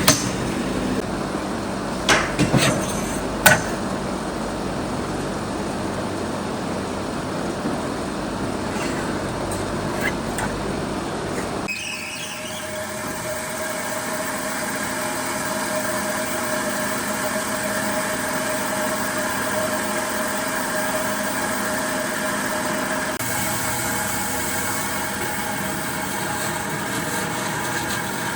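A few sharp knocks over a steady noise, then, about twelve seconds in, an abrupt change to a steady machine hum with several fixed pitches.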